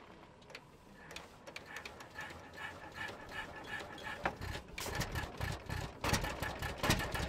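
The engine of an 1897 De Dietrich veteran car running with a fast, uneven mechanical clatter, growing louder after about four seconds.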